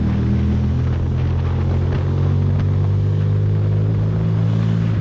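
Ducati Monster's L-twin engine running at steady cruising revs under a motorcycle rider, its pitch holding even throughout.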